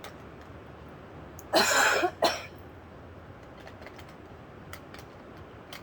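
A woman coughing: one longer cough about a second and a half in, then a short second one right after. A few faint clicks follow near the end.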